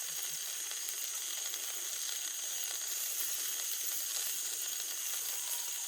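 Chicken pieces sizzling steadily on a wire grill grate over a campfire.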